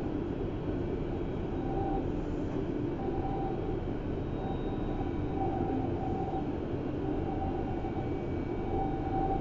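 Berlin S-Bahn class 481 electric multiple unit running at speed, heard from inside the passenger car: a steady rumble of wheels and running gear, with a thin higher tone that comes and goes several times.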